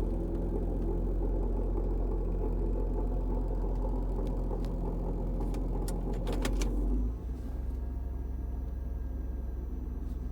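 Kia Sedona's 3.5-litre V6 idling in drive soon after a cold start, with a growl from the belt end of the engine that the owner suspects is a bad pulley or the power steering pump. About seven seconds in, a few clicks are heard and the engine sound drops and changes.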